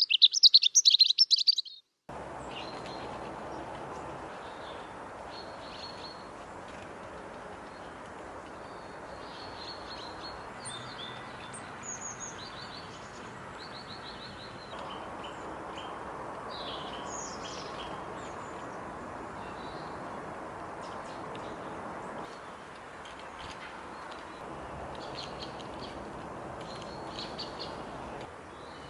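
Small garden birds chirping and calling: a loud run of high chirps in the first two seconds, then scattered short calls over a steady background hiss of outdoor noise that changes abruptly a few times.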